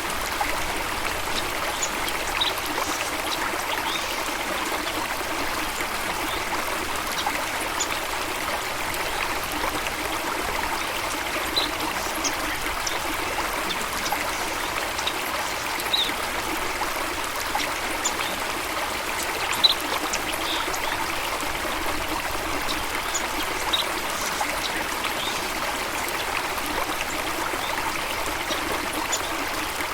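Water of a stream or small falls running steadily, with a few brief high chirps of birds scattered through it.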